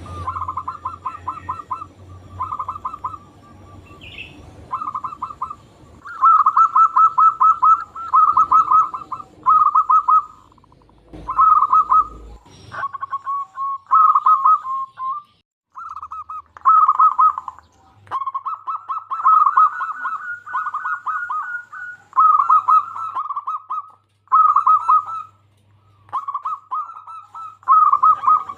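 Zebra dove (perkutut) cooing: phrase after phrase of rapid staccato notes, each phrase about a second long, with short pauses between.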